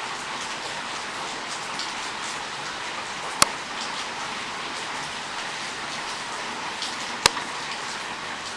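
Steady rain falling, an even hiss, with two sharp ticks about three and a half and seven seconds in.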